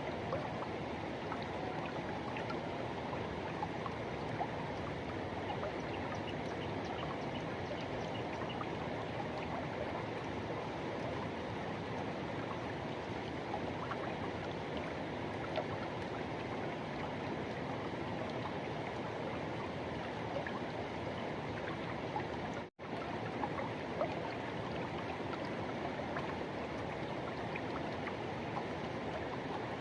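Forest river water rushing steadily, an even, unbroken rush. It cuts out for an instant about three quarters of the way through.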